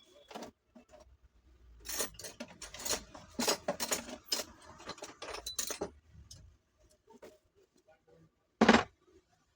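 Small metal parts and tools clinking and tapping in quick clusters, then one loud knock near the end, as a high-speed fan's motor bearing is worked on.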